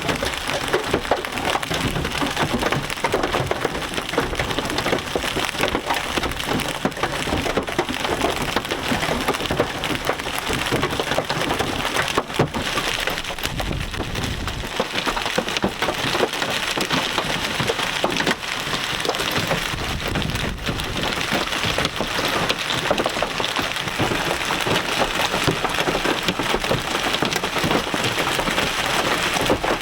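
Large hail, stones up to golf-ball size and more, pounding on a vehicle: a loud, steady, dense clatter of impacts from a supercell's hail core.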